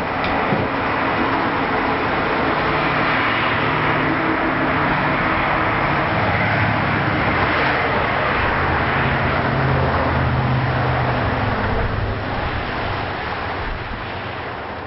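Steady road traffic noise with a low engine hum that rises and falls.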